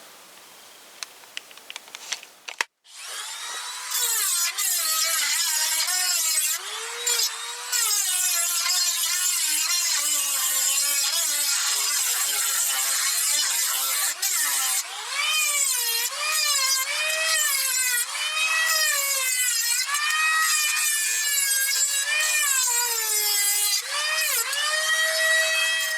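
Angle grinder starting about three seconds in and cutting through a weld on a steel motorcycle exhaust pipe, its whine dipping and recovering in pitch as the disc bites into the metal.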